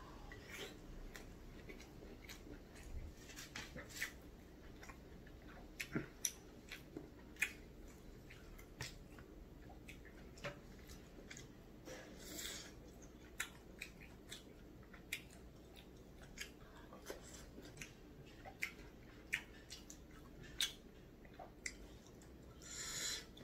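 Close-up chewing of gimbap and tteokbokki rice cakes: wet mouth smacks and clicks at irregular intervals. A breathy rush comes about halfway through and again near the end.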